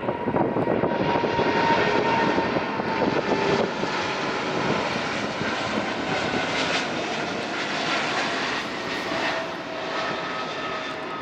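Jet engines of a Boeing 777-300ER (GE90 turbofans) running loud and close, with a few steady whining tones over the noise. The sound slowly fades as the airliner moves away.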